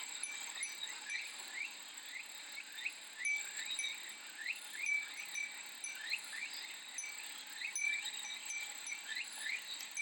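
A Japanese fūrin wind chime tinkling again and again, with short clear rings, over a steady high cicada drone. Many short rising chirps run through it.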